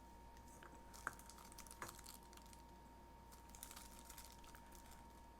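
Near silence, with a few faint light clicks about a second in and just under two seconds in: small toy cars and their plastic packaging being handled.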